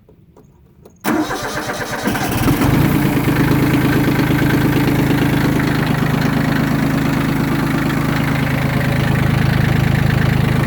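Yanmar F14D compact tractor's three-cylinder diesel engine cranked by the starter about a second in, catching within about a second and settling into a steady idle.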